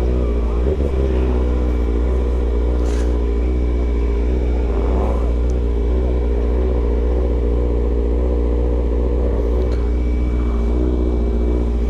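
Vehicle engine running steadily at low revs, moving at a crawl, with a constant deep rumble underneath.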